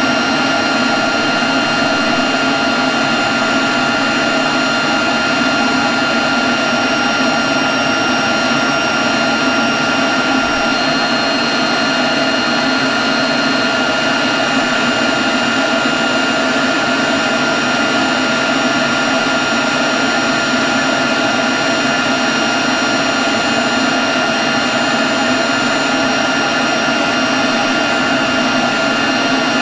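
Leaf blower running steadily at one constant speed: a rush of blown air with a steady high whine on top, without changes in speed.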